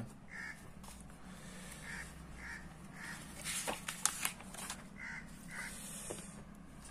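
Faint bird calls: a short call repeated about six times, some in pairs. About four seconds in there is paper rustling and a few light clicks as a book page is turned.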